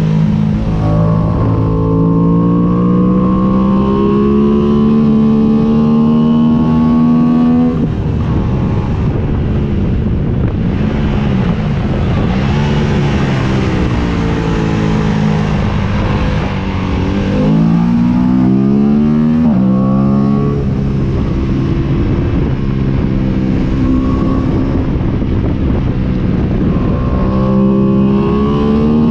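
Aprilia sport motorcycle's engine at track speed, heard on board: its pitch climbs steadily under acceleration, drops sharply at gear changes, and swings up and down quickly as it is revved through a corner, with wind rushing past.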